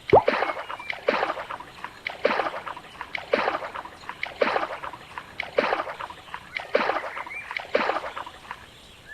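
Cartoon water sound effect: a splash or plop repeating about once a second, eight times, each starting with a short falling tone.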